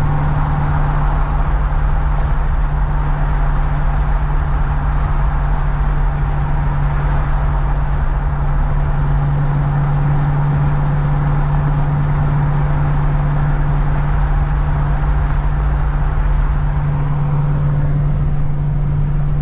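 Plow truck cruising at highway speed, heard from inside the cab: a steady, unchanging drone of engine and tyres on the road.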